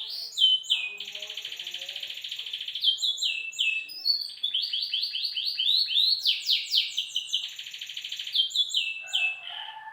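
A songbird singing a fast, varied song: long buzzy trills alternating with runs of quick, downward-slurred whistled notes. A fainter, lower warbling comes in near the end.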